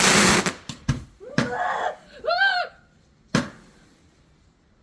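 Small firework rockets: a loud hiss at the start as one fizzes off, and one sharp crack a little past three seconds in, with a short cry from a person about two seconds in.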